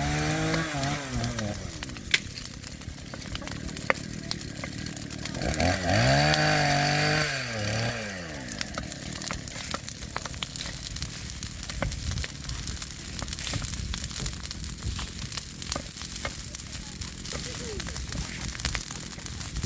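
Two-stroke chainsaw revved up and back down twice, near the start and again about six seconds in. Between and after the revs, a steady patter of crackles and clicks.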